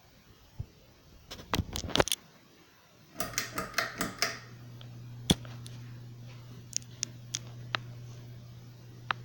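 Progress Lighting AirPro Builder 42-inch ceiling fan starting up. A few sharp clicks come about a second and a half in, then a cluster of clicks about three seconds in as the motor comes on. After that the motor gives a steady low hum, with a tick now and then.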